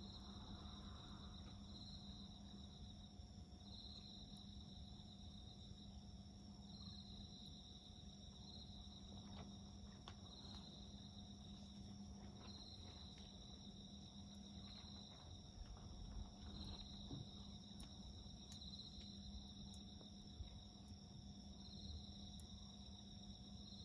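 Faint insects chirping: a high, pulsing call that swells and fades about every one and a half to two seconds, over a steadier high drone. A few faint crackles from a wood fire come in the middle.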